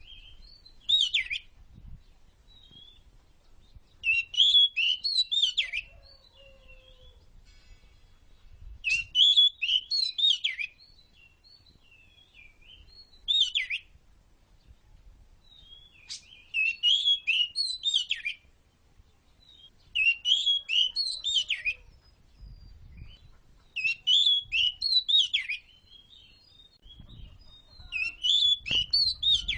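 Oriental magpie-robin (kacer) singing: eight bursts of rapid, varied whistled and chattering notes, each about one to two seconds long, coming every three to four seconds.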